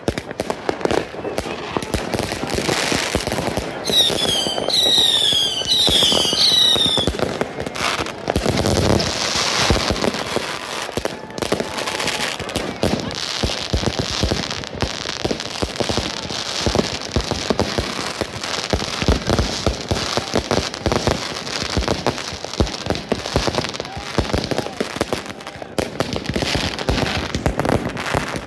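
Fireworks going off: a dense, continuous crackle of many bangs and pops. Several whistles glide down in pitch about four to seven seconds in.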